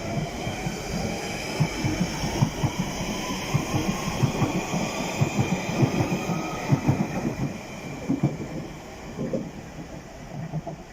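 London Underground Central line train (1992 Tube Stock) pulling out: its traction motors whine, rising in pitch as it accelerates, over a rapid clatter of wheels on rail joints that thins out and fades near the end as it leaves.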